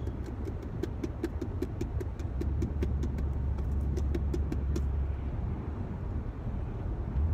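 Car cabin drone of engine and road while driving, with a rapid, even run of ticks, about five a second, that stops a little under five seconds in.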